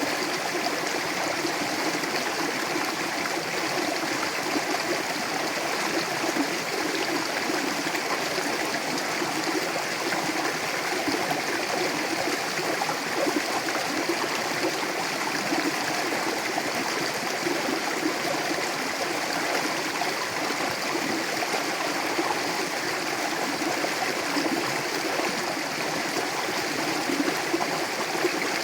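Mountain river flowing over rocks, a steady rushing of water with gurgling and trickling in it.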